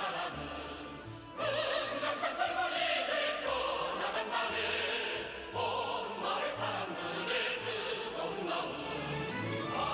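Operatic-style singing with orchestral accompaniment: a voice holds long notes with a wide vibrato over sustained bass notes, and the music swells back in about a second and a half in.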